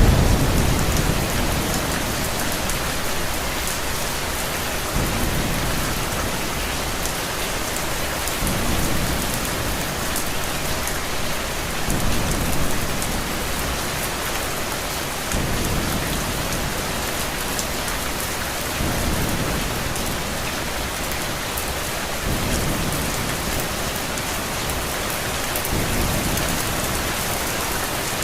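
Steady heavy rainfall with low thunder rumbles. A louder rumble fades out at the start, and softer ones swell and fade about every three and a half seconds.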